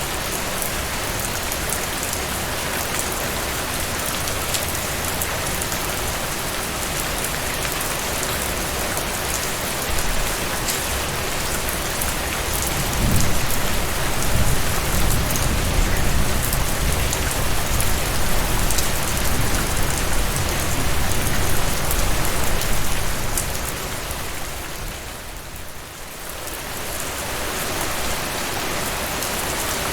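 Heavy rain falling steadily, a dense hiss full of individual drop ticks. A low rumble swells about a third of the way in and lasts some ten seconds, and the rain briefly fades near the end before returning.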